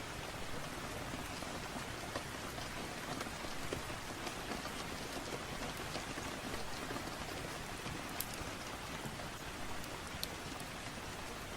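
Steady rain falling, a dense even patter, with scattered sharp ticks and clicks through it.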